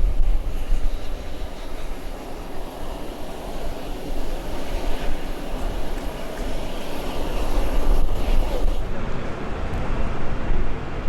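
Jet airliner engine noise, a steady rushing rumble with a strong low end.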